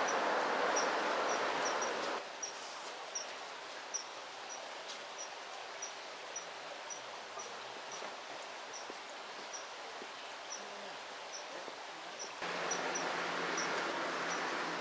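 Steady outdoor ambience of running stream water, with faint, evenly spaced high chirps about twice a second, insect-like. The rushing drops noticeably about two seconds in and grows louder again near the end.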